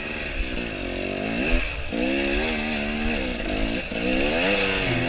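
Dirt bike engine revving hard in repeated surges, its pitch rising and falling as the throttle is worked. The rider is fighting for traction up a slippery muddy climb.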